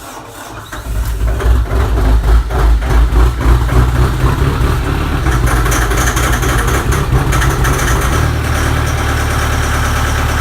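Kubota M100X tractor's diesel engine, cold-started at 9 °F without a block heater: it cranks briefly, catches about a second in and runs rough and uneven, then settles into a steady idle near the end.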